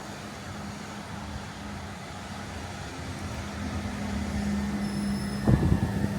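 Electric passenger train running, a steady hum over rumble that grows louder, with a few heavy thumps about five and a half seconds in.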